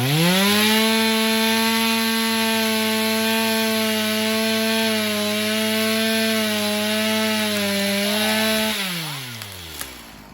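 Two-stroke chainsaw revved to full throttle, cutting through wood. It holds a steady high pitch with slight dips in speed, then the throttle is let off near the end and the engine winds down to idle.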